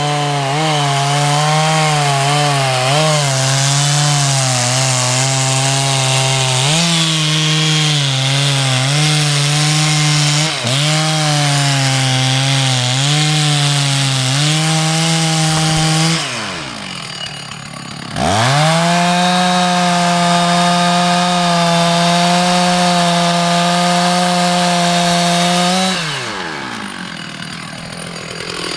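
Two-stroke chainsaw at full throttle cutting into wood, its engine speed sagging and wavering under load. About halfway through it drops back toward idle, revs up again and runs at steady high speed, then drops to idle again near the end.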